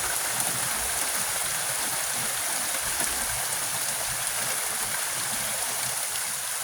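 Heavy rain pouring steadily, with a continuous rush of running water.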